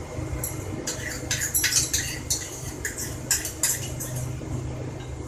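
A metal spoon clinking and scraping against a pan and ghee container as desi ghee is spooned into the pan, a quick irregular run of clicks, over a low steady hum.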